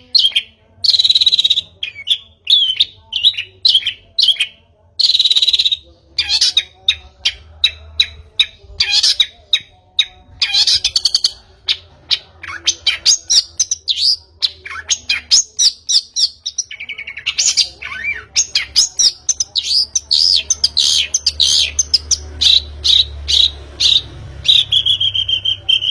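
Long-tailed shrike (pentet) singing a fast, varied song of short chirps, trills and rapid repeated notes, used as a lure song to set caged shrikes singing.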